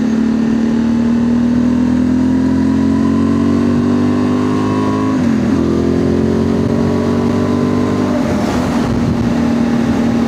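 Honda Transalp's parallel-twin engine running through a Dominator MX2 slip-on exhaust with the dB killer still fitted. The revs climb slowly, then drop for an upshift about five seconds in, climb again, and drop for a second upshift about eight seconds in.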